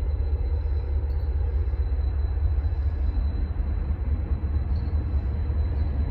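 CSX diesel freight train approaching in the distance: a steady low rumble.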